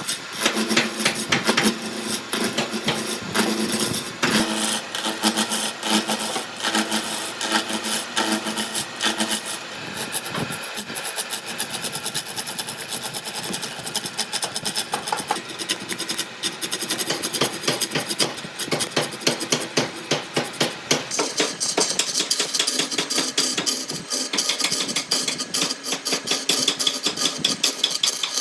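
Hand or power tools working wood: a dense run of rapid sharp taps and scraping strokes.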